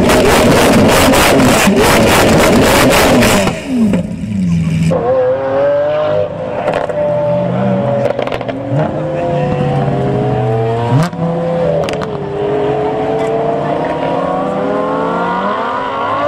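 Lamborghini Aventador V12 revved hard, a rapid stutter running through its loud note, which stops after about three and a half seconds. Then Lamborghini V12 and V10 supercars accelerate away hard, their engine notes rising through the gears, with a sharp crack at a gearshift about eleven seconds in and several cars overlapping near the end.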